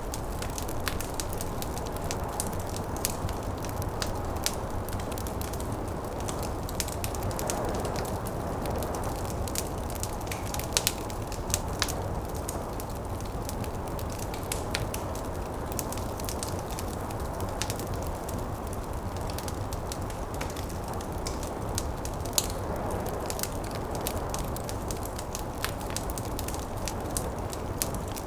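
Wood fire crackling with frequent small pops and a few louder snaps, over a steady low rush of snowstorm wind that swells and eases.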